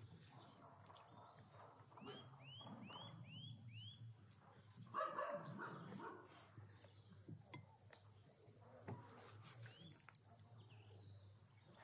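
Quiet outdoor ambience in which a bird calls a quick series of five rising-and-falling high notes about two seconds in. There is a short louder sound about five seconds in, and faint clicks of a metal serving spoon and knife against the meat.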